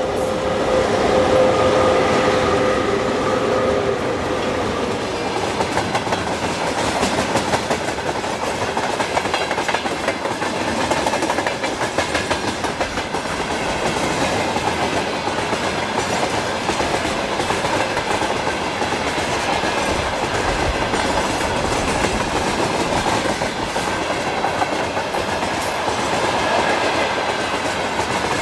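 Freight train rolling past, its wagon wheels clattering steadily over the rail joints. A steady whine is heard at first and fades away over the first few seconds.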